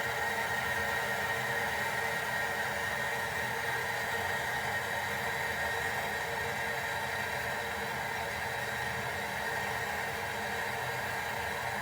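Gas brazing torch flame hissing steadily while copper refrigerator tubing is brazed.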